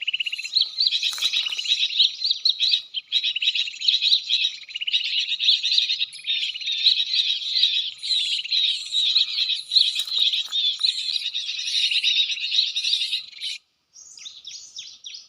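Small birds chirping in a dense, rapid run of high twittering notes, which cuts off suddenly near the end and gives way to fainter, more spaced chirps.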